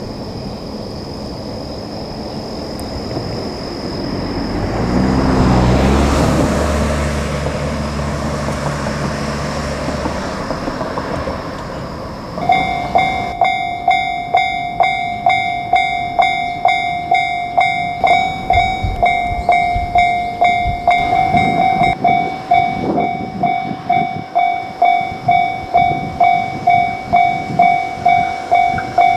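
An electric train passes on the Shinano Railway, loudest about five seconds in, with a low steady hum under the rush. From about twelve seconds in, a level-crossing warning bell rings steadily at about two dings a second.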